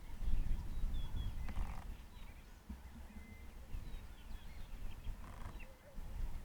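Faint short chirps and whistles from several wild birds over a steady low rumble.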